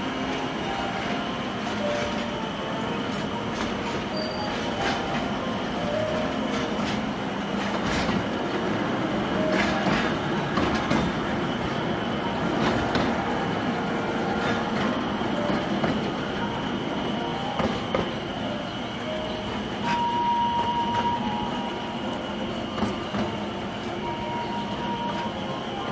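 Narrow-gauge forest railway train running, heard from aboard, with a steady rumble of wheels on rail. Irregular clicks come over the rail joints, and several brief high squeals of the wheels come through the curves.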